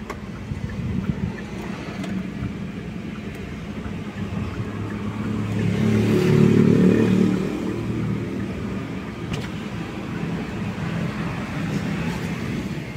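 Hyundai Stargazer's 1.5-litre four-cylinder petrol engine idling with a steady low hum, heard inside the cabin, swelling louder for a couple of seconds midway.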